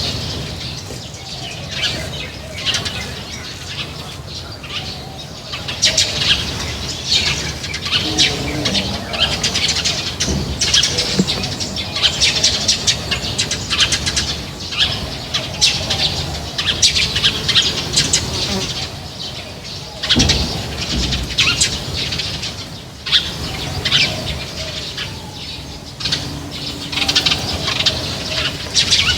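A flock of small birds at an outdoor feeding spot, chirping rapidly and continuously, with wings fluttering among the calls.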